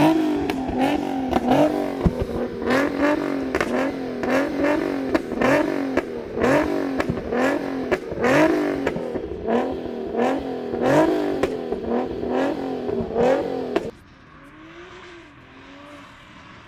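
Car engine revved hard in short repeated blips, about one a second, with sharp crackles between them. It stops abruptly about 14 seconds in, leaving one fainter rev.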